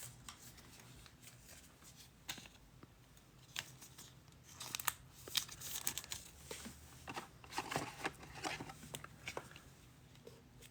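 Faint scattered rustles, scrapes and light clicks of trading cards being slid apart and handled one by one, busier in the second half.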